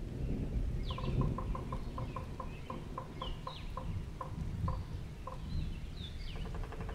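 Birds calling in the background: a run of short, evenly repeated calls, about four a second, lasting a few seconds, over scattered high chirps, with a faster buzzy call starting near the end.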